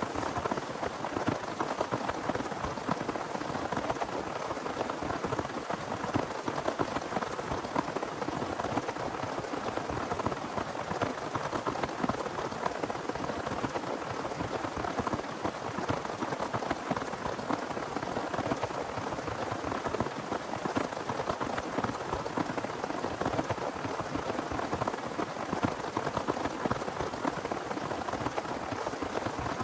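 Heavy rain falling steadily: a dense, unbroken patter of many drops striking a surface.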